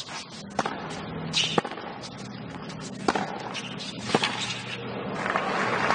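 Tennis ball struck back and forth with rackets in a rally: four sharp hits about a second apart, over a low crowd background that swells near the end.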